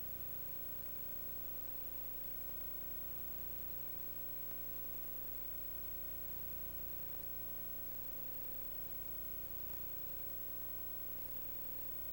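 Steady hiss with a constant electrical hum of several fixed tones, unchanging throughout: the recording's background noise with no other sound.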